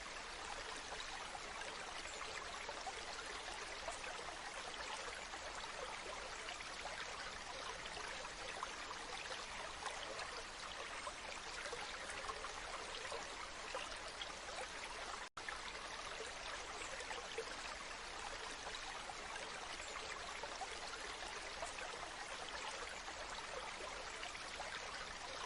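Waterfall: steady, even rushing of falling water, with a split-second gap about fifteen seconds in.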